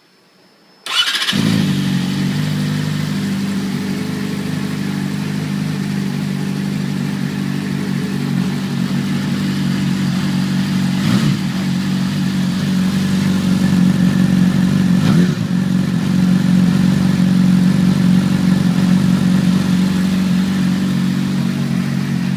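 Yamaha R6 inline-four sport bike with a Two Brothers aftermarket exhaust, started about a second in and then idling steadily.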